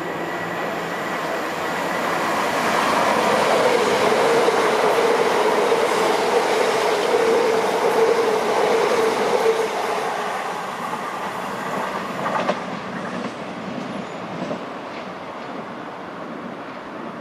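Southeastern electric multiple-unit train running through the station at speed, wheels clattering on the rails with a steady hum that swells as it passes close and then fades as it draws away. A single sharp click sounds about two-thirds of the way through.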